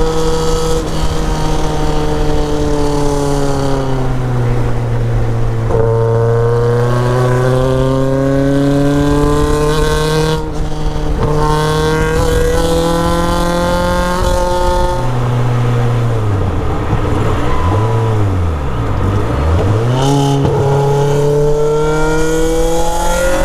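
Caterham R500 Superlight's 1.8-litre Rover K-series four-cylinder engine pulling hard, its revs climbing and breaking off at quick gear changes, with several fast dips and rises in revs about two-thirds through. Heard from the open cockpit over a steady rush of wind and road noise.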